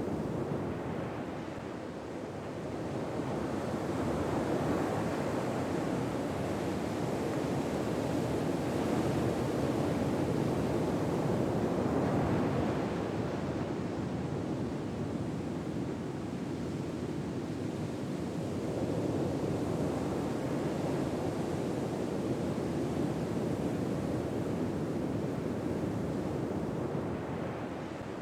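Ocean waves washing onto a shore: a steady rush of surf that swells and fades slowly, about every seven or eight seconds.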